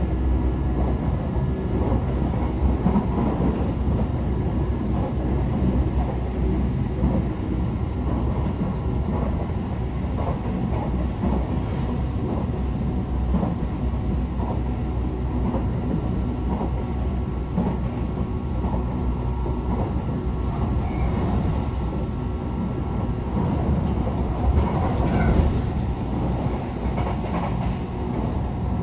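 Tokyo Metro 18000 series electric train running at speed, heard from inside the car: a steady running rumble with repeated wheel clicks over rail joints and the faint hum of its Mitsubishi IGBT inverter and permanent-magnet synchronous traction motors. A slightly louder run of clicks comes near the end.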